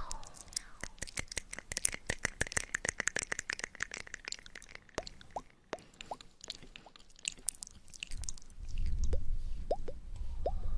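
Close-miked ASMR mouth sounds. A fast run of wet clicks is followed by scattered tongue pops, each with a slight pitch slide. A low rumble joins near the end.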